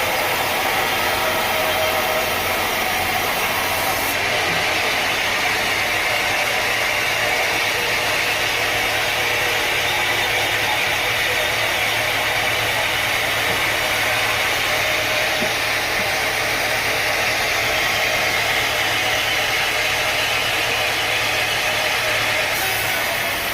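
Sawmill machinery running steadily: a continuous engine drone with a constant low hum under a dense, even noise.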